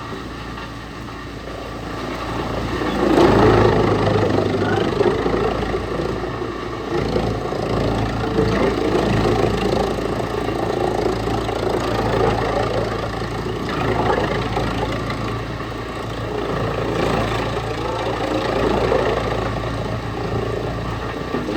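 Wood chipper running: a steady engine hum, with a louder, rough, uneven noise coming in about three seconds in and carrying on.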